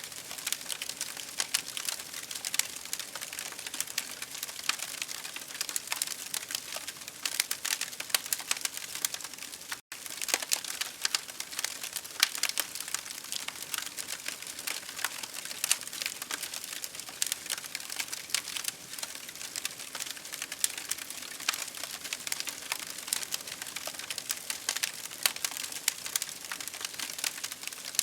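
Campfire crackling: a dense, irregular stream of small pops and snaps over a steady hiss, with a split-second dropout about ten seconds in.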